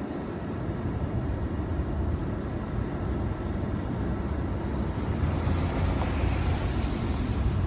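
Thunder rumbling: a long, low rolling rumble that slowly grows louder, with a higher hiss building in the second half.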